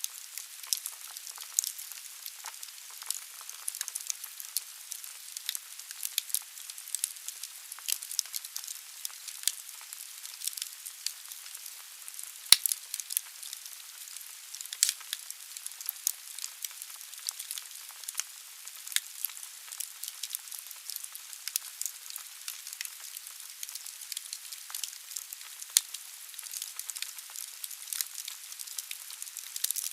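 Wood fire burning in a fireplace: a steady hiss with frequent sharp crackles and pops, the loudest pop about twelve seconds in.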